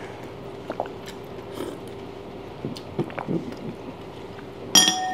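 Close chewing and small wet mouth clicks as crab claw meat is eaten, over a faint steady hum. Near the end comes a sharp ringing clink, like a utensil striking a ceramic bowl.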